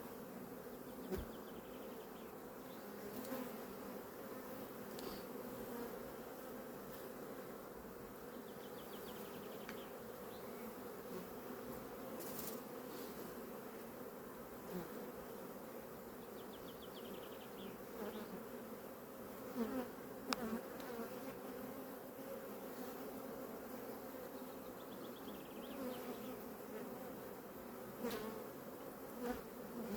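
Steady hum of many honeybees buzzing around an opened hive during a frame inspection, with a few brief clicks and knocks.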